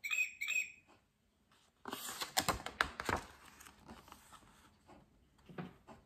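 Two short high squeaks from the mouse button of a children's electronic animal-sound pad, followed a second later by a stiff picture-book page being turned: a loud paper rustle with sharp clicks lasting about a second and a half.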